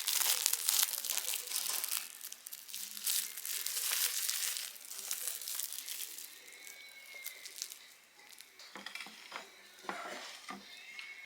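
Crinkling packaging being handled and unwrapped, dense crackling rustles for the first six seconds or so, then quieter, with a few light taps and rustles near the end.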